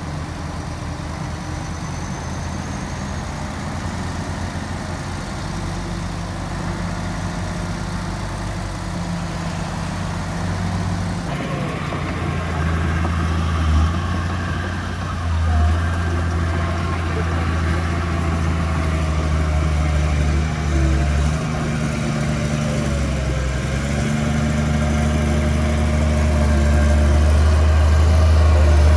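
Diesel engine of heavy earthmoving machinery running steadily. About a third of the way in the sound changes abruptly, and the engine then gets gradually louder with some wavering in pitch.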